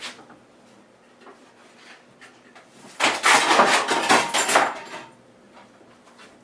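Rummaging in a box of bagged model kit parts: a burst of plastic packaging rustling and small parts clattering for about two seconds, starting about three seconds in.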